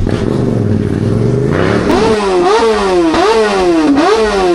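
An engine being revved hard again and again. After a steadier first second and a half, the pitch climbs and then drops sharply, repeating about every two-thirds of a second.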